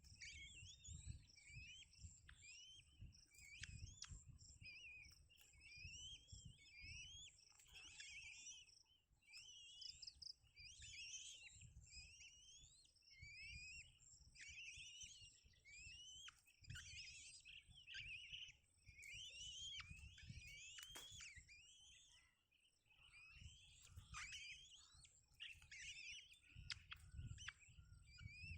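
Small birds chirping: a dense, continuous run of short, high chirps that rise and fall, over a faint low rumble.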